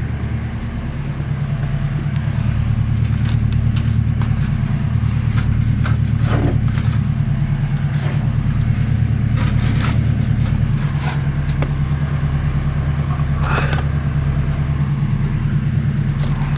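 Vertical baler's hydraulic pump motor running with a steady low hum as the ram is raised. A few short clicks and crackles sound over it.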